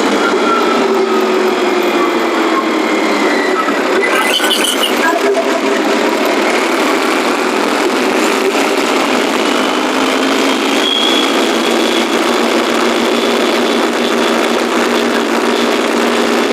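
New Holland 5510 tractor's diesel engine running under load on the road. Its note sinks over the first few seconds, then rises again and holds steady, with a faint high whistle on top that sounds like a turbo.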